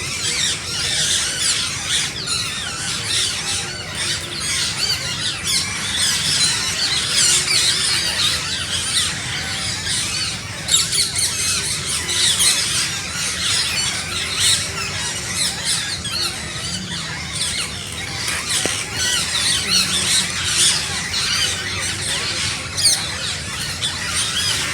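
A flock of parrots chirping and calling, many short high calls overlapping without a break.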